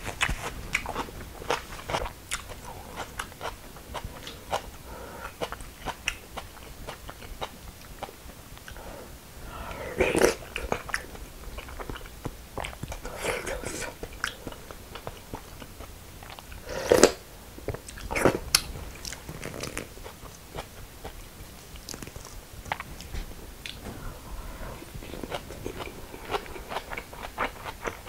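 Close-up chewing and crunching of a mouthful of raw young-radish greens bibimbap, crisp and wet, with many small clicks and a few louder noises midway.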